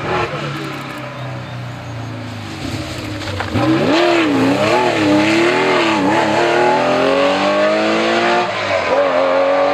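Historic rally car engine at full race pace: it comes in loud about a third of the way through, blipping up and down a few times, then pulls hard with a steadily rising pitch, drops briefly at a gear change near the end and climbs again.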